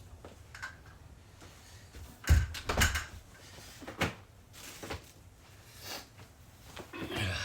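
Snow shovel knocking and scraping: a string of separate thumps about a second apart, the loudest a little over two seconds in, with a rougher scrape near the end.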